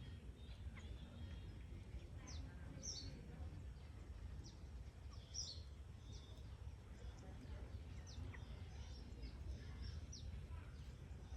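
Faint, scattered short high chirps from birds, many falling in pitch, over a steady low outdoor rumble.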